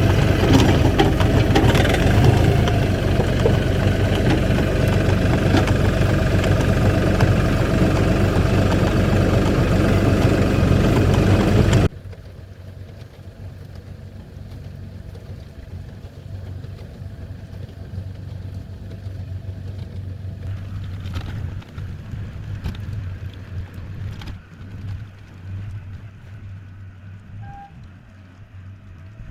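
A vehicle engine running steadily and loud, then the sound drops sharply about twelve seconds in to a much quieter low engine hum with a few scattered knocks.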